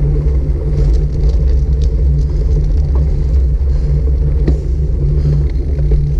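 Wind rumbling steadily on a GoPro Hero 5 Black's microphone during a bicycle ride, mixed with road noise. A few faint small clicks sound through it.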